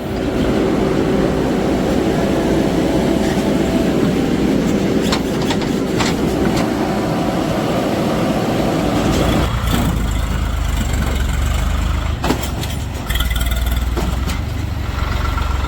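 Heavy machinery diesel engine running hard. About nine or ten seconds in it changes to a deeper, lower rumble, with a few knocks and clatters.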